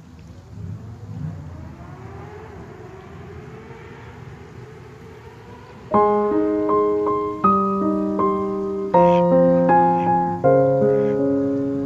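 A low rumble with a faint slowly rising tone, then about halfway in piano music starts, struck notes and chords that each die away, much louder than the rumble before it.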